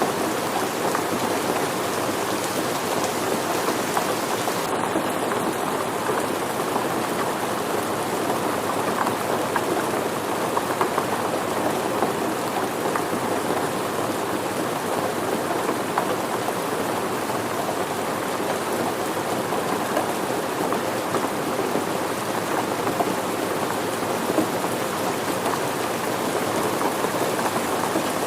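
Steady rain falling, an even, dense patter of drops with no let-up.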